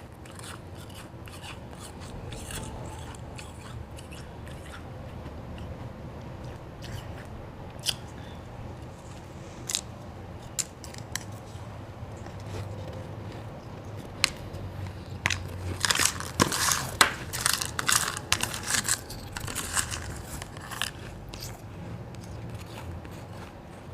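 Person biting and chewing white ice: scattered sharp crunches, then a dense run of crackling crunches lasting several seconds in the second half.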